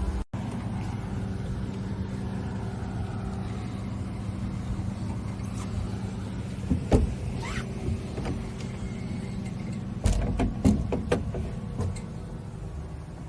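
Yamaha UF25 boat's engine running steadily at idle, with a few sharp knocks about seven seconds in and a cluster of them a few seconds later.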